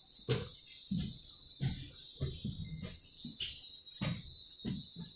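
A steady, high-pitched chorus of forest insects such as crickets or cicadas. Under it are soft footsteps, about every two-thirds of a second.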